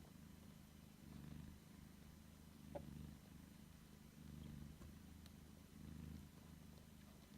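British Shorthair cat purring faintly as its kittens nurse, the low rumble swelling and easing with each breath, about every second and a half. A brief faint squeak sounds about three seconds in.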